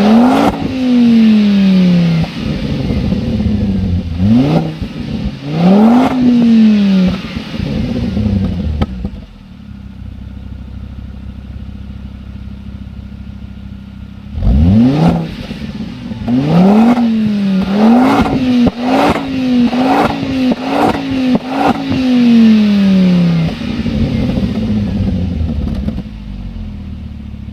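Ford Focus ST engine free-revving through an aftermarket exhaust. A few sharp rev blips rise and drop back, then it idles for about five seconds. A quick run of about five short blips follows, then one long fall back to idle.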